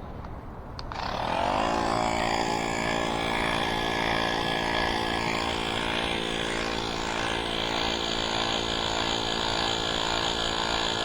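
Electric tire pump starting about a second in, its motor spinning up with a brief rising whine, then running steadily while it inflates an e-bike's rear tire.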